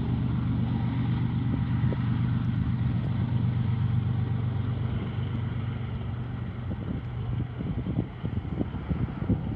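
Diesel freight locomotive engine running with a steady low drone over the rumble of a passing train, fading after about seven seconds. Irregular low thumps come in near the end.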